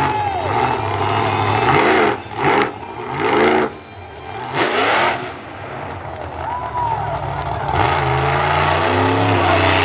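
Monster truck engine revved hard in repeated surges, its pitch swinging up and down, then held at high revs near the end.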